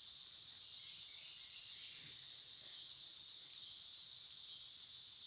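Steady chorus of night insects, a continuous high, shrill trill with no break.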